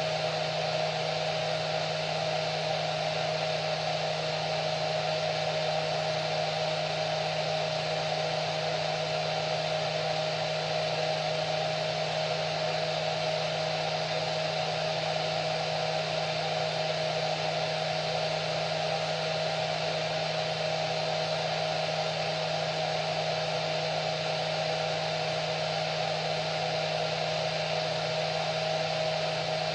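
Hair dryer running steadily: an even rush of air with a constant motor hum and a steady whine.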